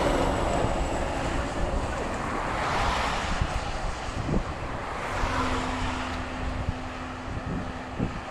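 Wind rushing and buffeting over the microphone of a moving bicycle's camera, swelling and easing. About five seconds in, a faint steady hum joins it for a few seconds.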